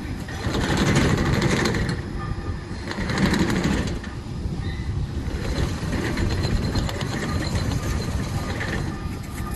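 Tracked remote-controlled lawn mower's engine running with a fast, even pulse, swelling louder twice, around one and three seconds in.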